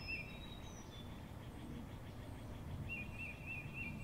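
Birdsong over a steady low outdoor background noise: a short phrase of quick repeated warbling notes at the start, and the same phrase again near the end.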